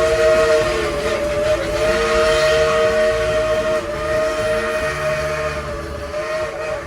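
Whistle of Baldwin-built steam locomotive No. 70 sounding one long chord that dips briefly a few times and eases slightly toward the end, over the rumble of the moving train.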